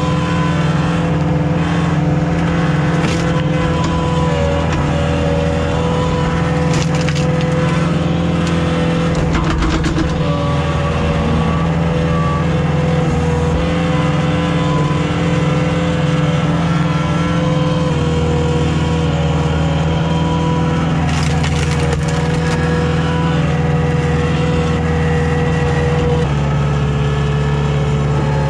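Komatsu CK30 skid steer's diesel engine running steadily under hydraulic load, its note shifting a few times as it works a homemade log splitter. Now and then comes a sharp crack and crunch as big firewood rounds are forced apart.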